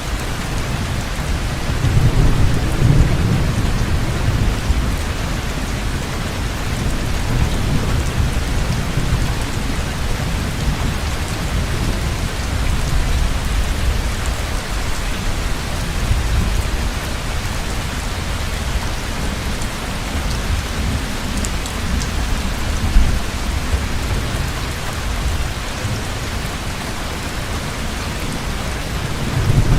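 Heavy rain falling steadily, with low rolling thunder rumbling underneath, swelling most about two to four seconds in.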